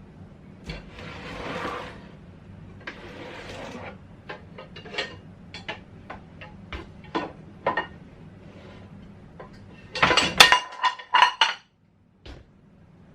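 Dishes and cutlery being handled: a string of clinks and knocks, with two short rushes of noise early on and a loud burst of ringing clatter about ten seconds in. The sound cuts out abruptly for about half a second near the end.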